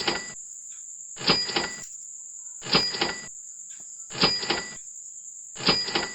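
Countdown timer sound effect: a short sound repeating about every one and a half seconds, five times, over a steady high-pitched hiss.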